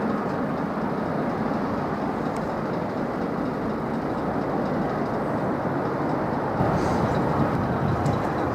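Steady low rumble of distant jet aircraft engines.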